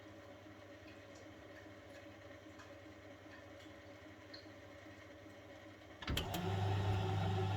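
1971 Constructa Garant 491 washing machine in a boil wash: a few seconds of low, steady background with faint ticks while the drum rests. About six seconds in, a click as the drum motor switches on, then a loud, steady motor hum as it turns the drum.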